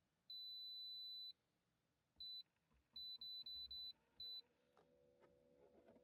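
Electronic beeping from a device: one long high beep, then a short beep, a quick run of four short beeps and one more. A low steady hum with a few light clicks starts near the end.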